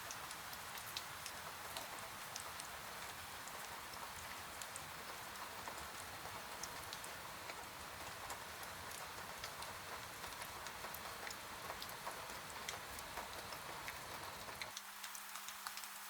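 Steady rain hiss with many small sharp crackles and pops of a wood fire scattered through it. Near the end the low rumble drops out, leaving a faint low hum under the rain and crackle.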